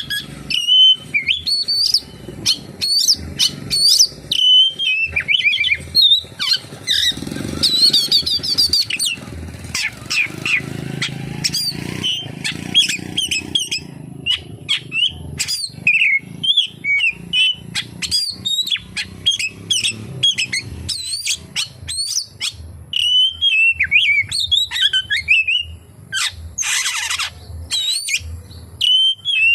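Oriental magpie-robin (kacer) singing a fast, continuous song of short sweeping whistles and chirps, with phrases imitating the kapas tembak bulbul worked in. A faint low rumble sits under the song for a few seconds near the middle.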